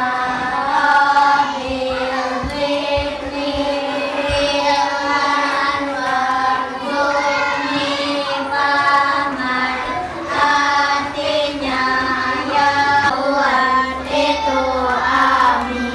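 A group of children singing together, the voices carrying a continuous melody.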